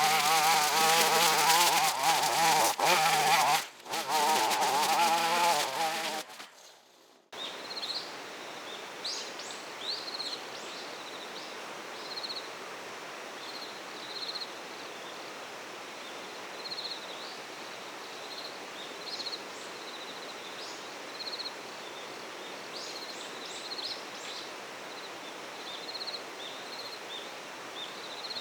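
A brushcutter's small two-stroke engine runs at high speed with its pitch wavering, dips briefly, then fades out about six seconds in. After that there is a quiet outdoor background with short high chirps repeating every second or so.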